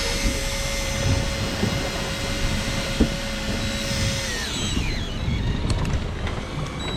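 Electric fishing reel's motor whining steadily as it winds in line, then winding down with a falling pitch about four seconds in, over a low rumble of wind and boat noise.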